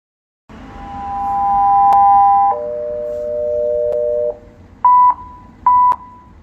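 Electronic fire station dispatch alert tones: a steady high two-note tone for about two seconds, then a lower two-note tone for almost two seconds, then short beeps about a second apart.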